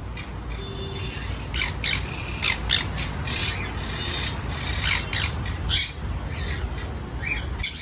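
Pet parrots squawking in a string of short calls, about two or three a second, starting about a second and a half in.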